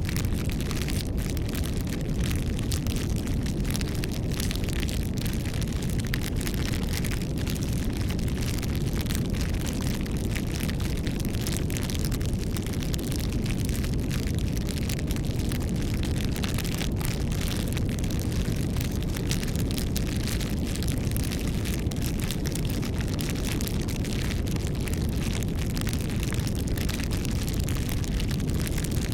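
Campfire burning steadily: a low rumble with dense, continuous crackling and popping.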